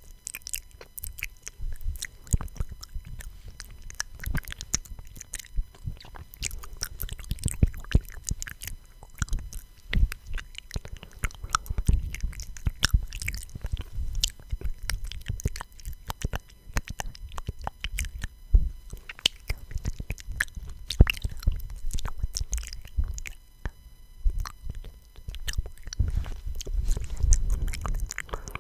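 ASMR mouth sounds close to the microphone: many short wet clicks and smacks in an uneven pattern, with soft low thumps.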